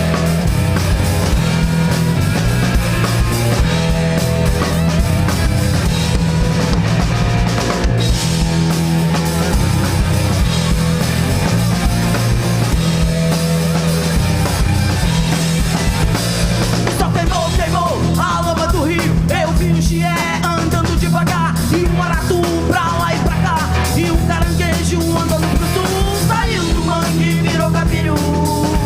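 Live rock band playing an instrumental passage: electric guitars, bass guitar and drum kit, with a steady driving bass line. About two-thirds of the way through, a higher lead line with bending notes comes in over the band.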